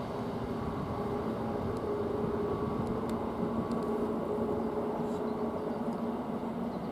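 Diesel train running steadily, a constant low hum with a couple of steady tones over a rumbling drone.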